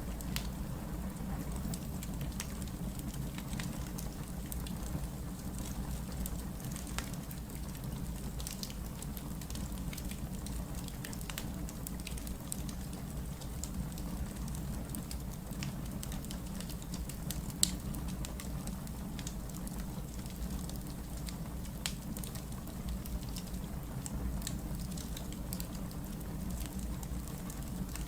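Wood fire burning: a steady low rumble with scattered light crackles, and one sharper pop about two-thirds of the way through.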